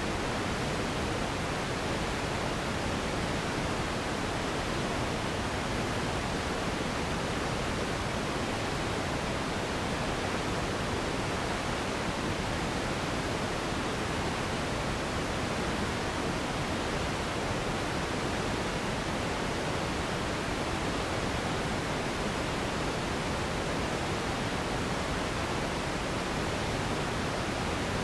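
Steady synthetic sleep noise of the pink-noise kind: an even, unchanging rush with the highs rolled off and no pattern or events in it.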